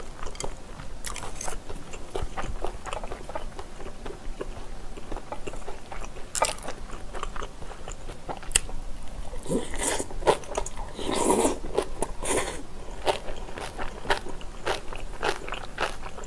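Close-up chewing and wet mouth clicks of a woman eating spicy bulgogi with glass noodles, steady small smacks throughout, with a louder, denser stretch of mouth noise about ten seconds in.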